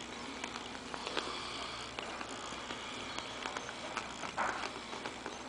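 Five-week-old Morkie (Maltese–Yorkie) puppies snuffling and sniffing as they move about, with faint scattered clicks. A short, louder snuffle comes about four and a half seconds in.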